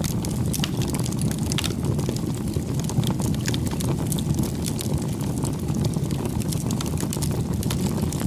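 Wood fire burning, with a steady low rumble under frequent irregular crackles and pops.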